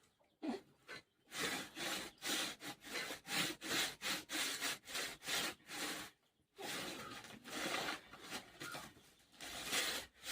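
Crunchy food being chewed close to the microphone: a fast run of short rasping crunches, about three a second, then a longer continuous crunching stretch and a few more bites near the end.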